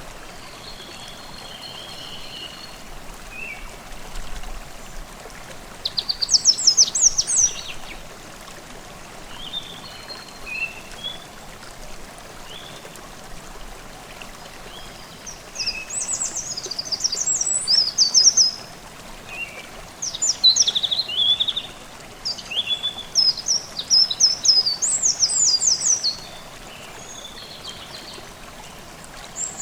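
Forest stream babbling steadily, with songbirds singing quick high phrases over it, first about six seconds in and then repeatedly through the second half, where the song is loudest.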